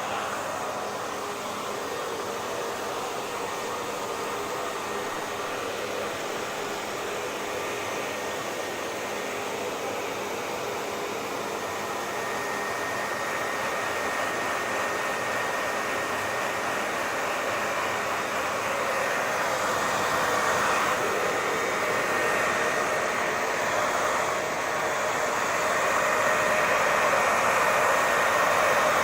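Hair dryer running continuously, a steady rushing blow with a faint high whine, growing a little louder toward the end.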